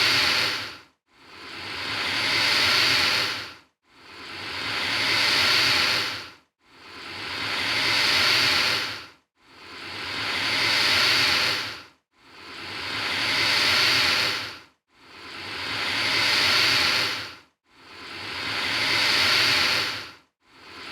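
An alligator hissing over and over: a long breathy hiss about every three seconds, each swelling up and then stopping abruptly before the next one starts.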